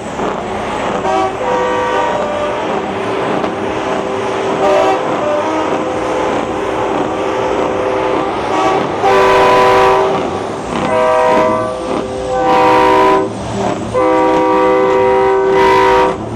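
Semi-truck air horns blowing a chord of several tones. A quieter held blast runs through the first half, then come four or five loud blasts, the last about two seconds long.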